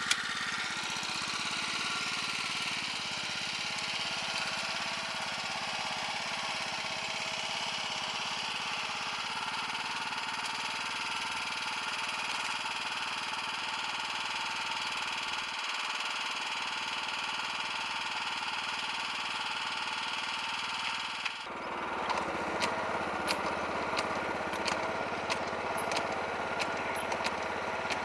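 A small engine running steadily. About two-thirds of the way through, the sound changes abruptly to a rougher engine noise with a string of sharp clicks.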